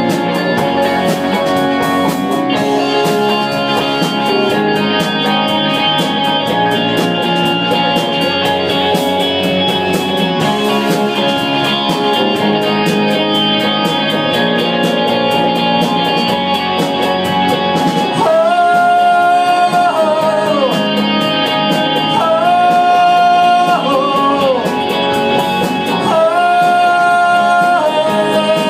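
Live rock band playing an instrumental passage led by electric guitar. From about 18 seconds in, long held notes that slide between pitches come in three times, over the band.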